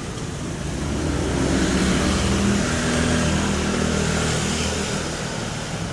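A motor vehicle driving past, its engine and tyre noise swelling from about a second in and fading toward the end.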